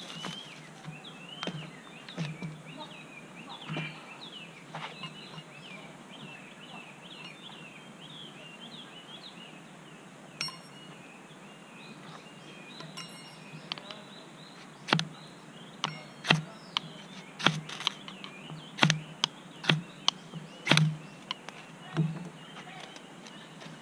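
Birds chirping in the background, many short rising and falling calls, for the first half. After that comes a run of loud, sharp, irregular snaps and cracks, about one or two a second.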